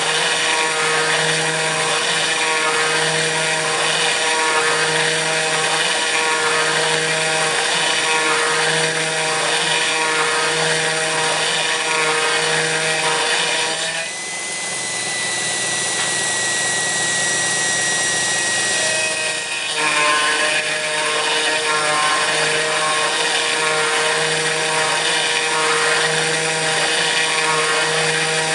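Kress FME-1050 router running as a CNC spindle while milling aluminium, a steady whine with a regular pulsing as the cutter works along its path. About halfway through, the sound changes for about five seconds to a thinner, high single-note whine that falls slightly in pitch, then the earlier cutting sound returns.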